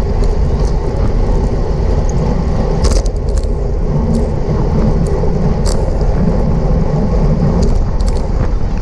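Steady wind rumble and road noise from a road bicycle riding at race speed, with a few sharp clicks about three seconds in and again near six seconds.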